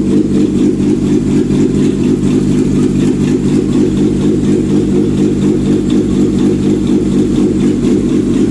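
Nissan CA16S carburetted 1.6-litre four-cylinder engine idling steadily on a test stand during a bench check of the engine.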